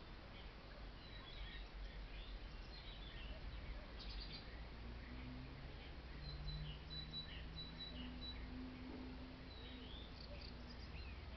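Small birds chirping in a garden, many short high calls scattered throughout, faint over a steady low background hum.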